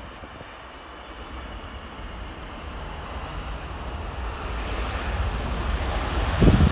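Jet engine noise of a jumbo jet growing steadily louder as the aircraft approaches, with gusts of wind buffeting the microphone near the end.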